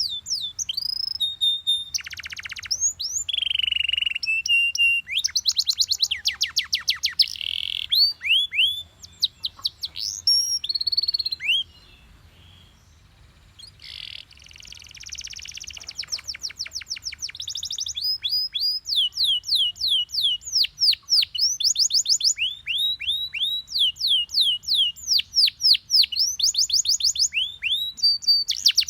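Yellow Belgian canary singing: fast rolling runs of high, repeated down-sweeping notes mixed with buzzy trills. The song pauses briefly about halfway through, then picks up again with long runs of quick repeated notes.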